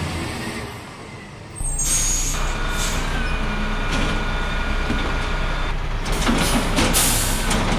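A heavy vehicle's engine running steadily, starting suddenly about a second and a half in, with a loud burst of hissing near the end.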